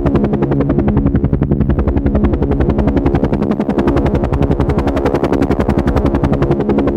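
Helicopter rotor running steadily: a fast, even chopping of the blades with a steady hum beneath.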